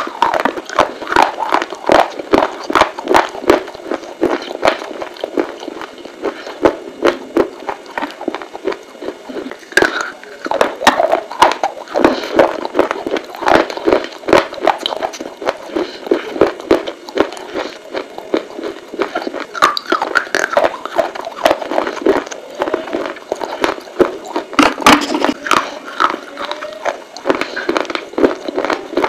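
Close-up crunching and chewing of dried clay pieces. Dense, sharp crunches come many times a second throughout.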